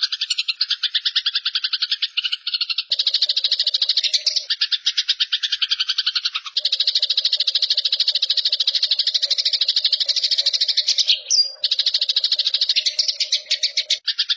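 Eurasian tree sparrows giving their agitated fighting call: a loud, fast, rattling chatter in long runs, broken by brief pauses every few seconds.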